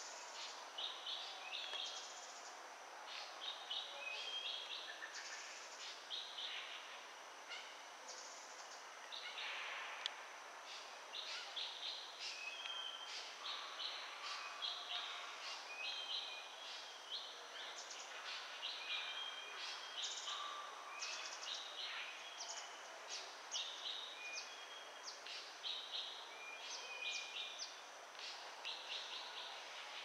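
Many small birds chirping and calling in quick, short notes, overlapping one another, with a faint steady high tone underneath.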